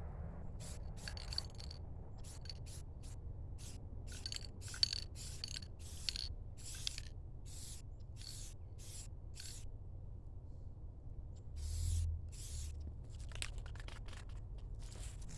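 Short hand-worked scraping or rubbing strokes on the metal bed frame, coming irregularly about one or two a second and pausing briefly after the middle, over a low steady hum.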